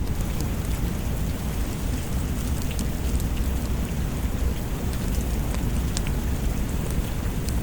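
Steady rain with a continuous deep low rumble underneath, and a few sharp crackles from a wood fire scattered through it.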